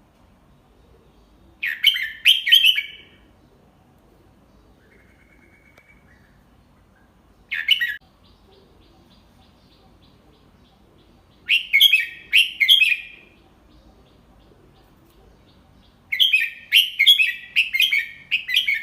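Red-whiskered bulbul singing its 'double-three' song type, used as a tutor song for young bulbuls. Four short phrases of quick warbled notes come several seconds apart, the last one the longest, with a few faint soft notes between them.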